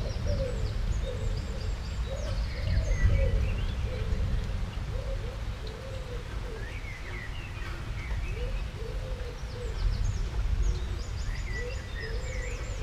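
Birds calling: high chirps come and go over a wavering, rising-and-falling cooing call, with a steady low rumble underneath.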